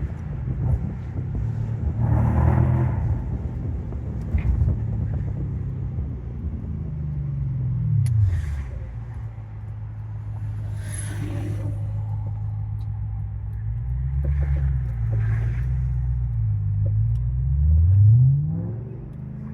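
2006 Audi S4 Avant's 4.2-litre V8 running under way. Its pitch falls about seven seconds in, holds steady, wavers up and down, then rises as it accelerates near the end.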